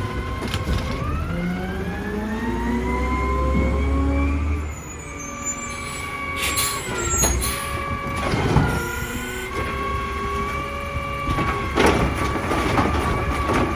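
Garbage truck running its automated side-loader: the engine rises in pitch for a few seconds, then drops back about five seconds in. A steady high whine continues, with several sharp clanks and hisses along the way.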